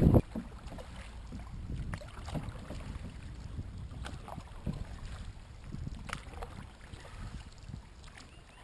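Paddle craft on the river: after a louder rush cuts off abruptly at the very start, faint water sounds and a low wind rumble on the microphone, with a few light knocks scattered through.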